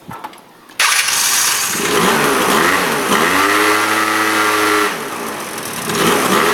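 Stock Yamaha small-bike engine catching about a second in and being revved. It rises to a held high rev, drops back just before the five-second mark, then climbs again near the end.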